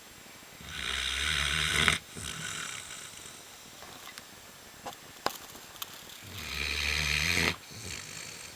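Newfoundland dog snoring: two long, low snores about five seconds apart, each swelling up and then cutting off abruptly, each followed by a softer breath. A few sharp little clicks fall in the pause between them.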